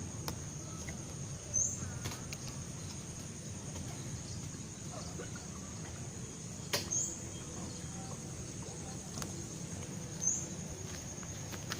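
Insect calling as a steady, thin, high-pitched tone, swelling briefly three times, about every four seconds. A single sharp click comes about seven seconds in, over a low steady hum of background noise.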